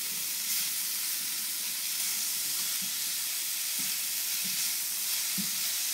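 Shredded vegetables and pineapple sizzling in hot oil in a frying pan as they are stirred with a silicone spatula: a steady hiss, with a few soft knocks from about the middle on.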